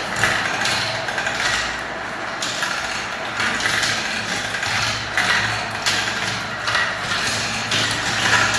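Many marbles rolling down a spiral marble-run track together, a continuous rattling rumble that swells and eases about once a second.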